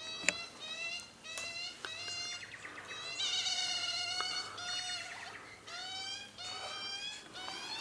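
Birds giving a string of short, nasal, meow-like calls, one after another, several overlapping near the middle. A single sharp click comes just after the start.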